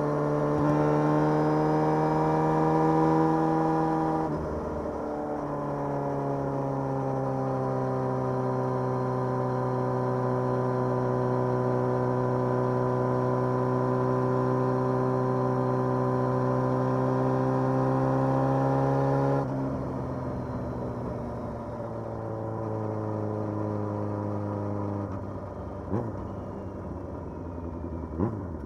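Motorcycle engine running under way at steady revs, with a brief break about four seconds in. Then comes a long steady pull whose pitch sinks slowly, and about twenty seconds in the engine drops to a lower, quieter note. Two short sharp clicks come near the end.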